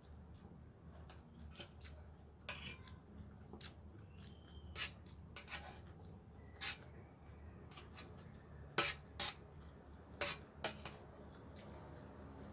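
Close-miked eating of a raw vegetable salad: scattered short clinks and scrapes of a utensil against the bowl mixed with crunchy chewing. The loudest come about three quarters of the way through.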